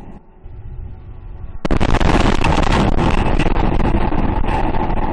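A sudden loud boom about a second and a half in, followed by a few seconds of heavy rumbling. It is a mystery boom that shook homes, which officials think was probably a high-speed jet's sonic boom.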